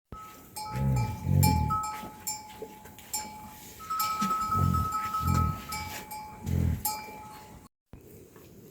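Livestock bells ringing steadily, mixed with about five short, low calls from farm animals.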